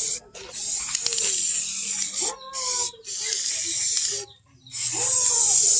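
Repeated bursts of loud hissing, each roughly a second long with short breaks between them. Short call-like sounds that bend in pitch come about two seconds in and again near the end.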